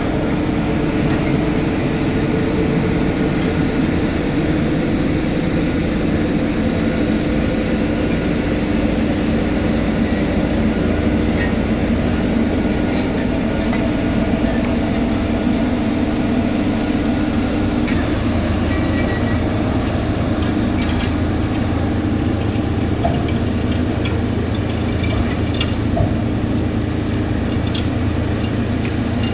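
Diesel engines of heavy asphalt-paving machinery running steadily with a mechanical drone, the pitch of the running shifting about two-thirds of the way through.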